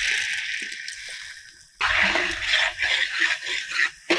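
Hot oil in a metal pan sizzling loudly as tomato and garlic paste is poured in, the sizzle fading over about two seconds. Then a spatula stirs and scrapes the frying paste in the pan, with many short clicks over the continuing sizzle.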